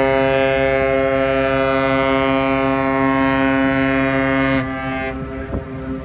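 A long, low horn blast, held at one steady pitch for about five seconds, then weakening and dying away.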